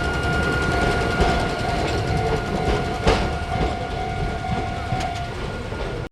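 Small two-car electric train of the Hakone Tozan Railway running on the track with a steady rumble and a steady whine, and a single clack about three seconds in.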